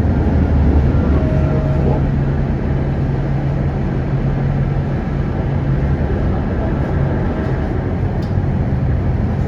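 Tram running between stops, heard from inside the car: a steady low rumble and hum of wheels on the rails and the drive.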